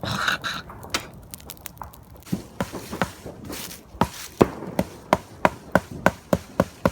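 A stick beating on wood, a run of sharp knocks that becomes an even beat of about three a second.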